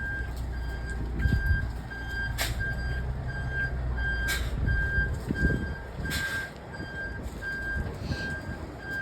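A truck's reversing alarm beeping evenly, about one and a half beeps a second, over the low running of its diesel engine, with a few short sharp noises every couple of seconds.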